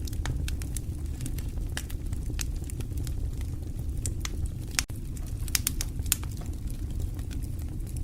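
Wood fire burning in a fireplace, with a steady low rumble of flame and irregular sharp crackles and pops of burning logs, a quick run of them a little past halfway.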